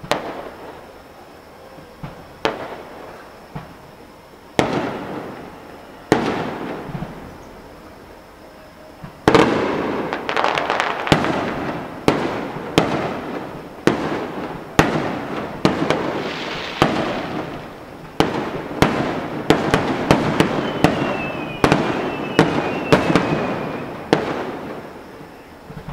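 Fireworks display: aerial shells bursting with sharp bangs, a few spaced a couple of seconds apart at first, then a rapid barrage of many bangs and crackle from about nine seconds in. The barrage thins out near the end.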